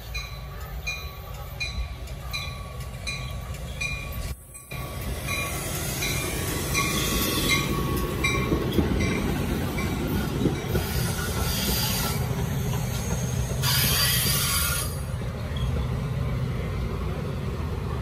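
Metra commuter train of bilevel gallery cars rolling past, its rumble building from about six seconds in, with bursts of high wheel squeal near the middle and again toward the end. A grade-crossing bell rings about twice a second during the first half.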